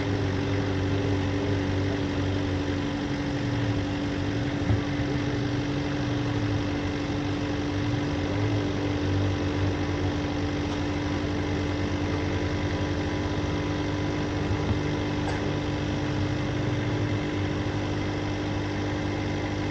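A 4x4's engine idling steadily, with a constant hum and no revving.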